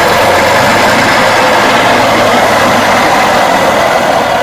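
Tohatsu 4hp two-stroke outboard motor running steadily and loudly on a rich 25:1 fuel mix, after being freed from seizure.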